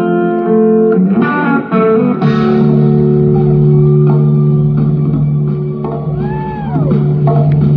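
Live band playing a guitar-led instrumental: electric guitar lines with notes that slide up and back down in pitch, over a sustained bass note.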